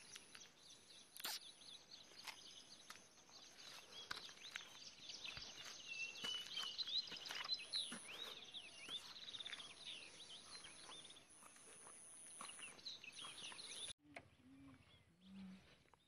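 Faint birdsong in open country: many short chirps and whistles, thickest in the middle, over a soft outdoor hiss. It drops away suddenly near the end.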